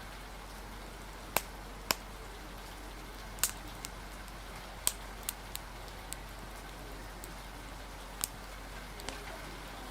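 Mixed ambience: a steady hiss of rain and wind under irregular, sharp pops and crackles from a wood fire, about a dozen in ten seconds.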